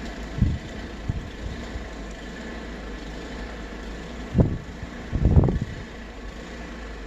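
Wind in a snowstorm, a steady low rumble with a few gusts buffeting the microphone, the longest and loudest about five seconds in.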